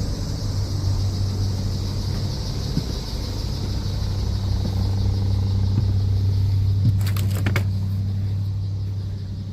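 Chevrolet 454 big-block V8 of a 1987 Winnebago motorhome idling steadily with a deep even hum, warming up shortly after a cold start following a long sit. A few sharp clicks sound about seven seconds in.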